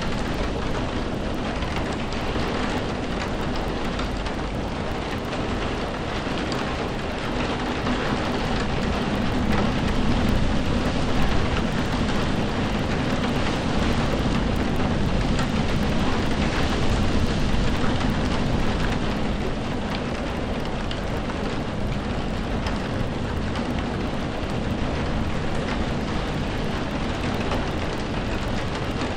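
Steady heavy rain falling, with a low rumble of thunder swelling up about a third of the way in and fading away again.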